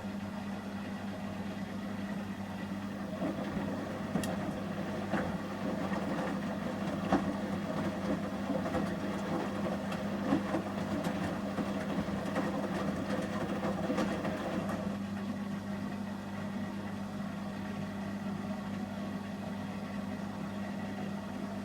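Samsung Series 5+ front-loading washing machine in its heating stage, the drum turning the wet load with sloshing and knocking until about fifteen seconds in, when the tumbling settles. A steady low hum runs underneath.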